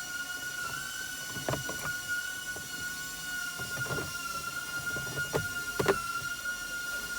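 Scattered knocks and clicks of tools and parts being handled during reassembly, about six in all, over a steady high-pitched whine.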